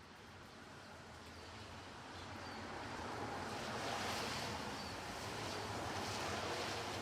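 Soft rain falling, a steady hiss that swells louder over a couple of seconds and stays up, with a few faint short high chirps.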